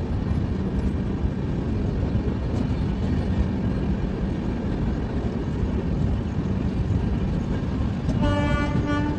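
Steady rumble of a moving passenger train, heard from alongside its coaches. A train horn sounds once near the end, held for about a second.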